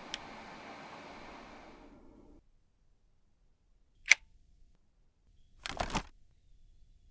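Sharp plastic clicks from handling the purifier's filter parts: one loud click about four seconds in, then a short clatter of clicks near six seconds. A steady hiss underneath cuts off about two and a half seconds in.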